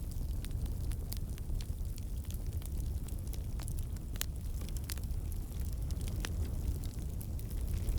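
Campfire burning: a steady low rumble of the flames with frequent sharp crackles and pops of burning wood, irregular, a few of them louder.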